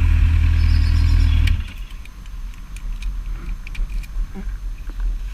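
Honda CBF1000 inline-four motorcycle engine running steadily, dropping away abruptly about a second and a half in, leaving a low uneven rumble with scattered small clicks.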